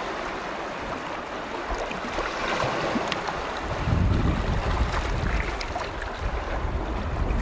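Small waves lapping and splashing on a lake shore, a steady watery hiss with little splashes. About four seconds in, wind buffeting the microphone adds a low rumble.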